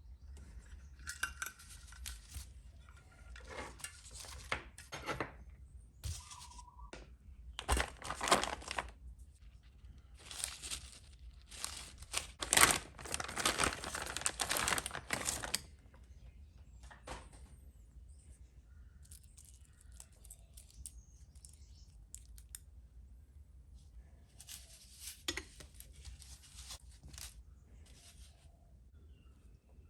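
Plastic packaging rustling and tearing in irregular bursts, mixed with small clicks of kit parts being handled.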